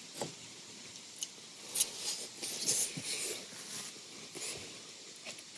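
Light clinks and scrapes of an eating utensil against cookware as food is picked up and eaten, a few sharper ticks through the middle.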